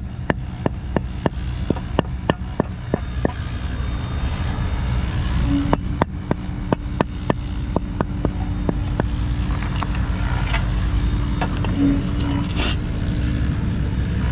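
A steady low engine rumble with runs of rapid, even clicking, about three clicks a second, in the first few seconds and again around the middle.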